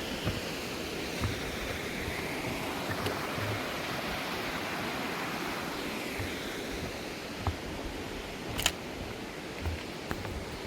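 Mountain stream rushing over rocks in a steady hiss of water, with a few soft low thumps and one sharp click a little past eight seconds in.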